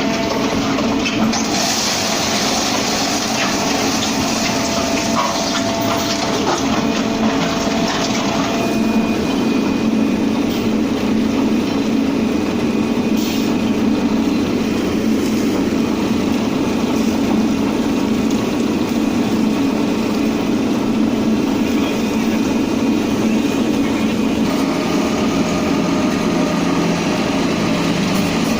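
Truck-mounted concrete mixer pump running: a loud, steady machine noise of engine and pumping, whose high hiss drops back about nine seconds in.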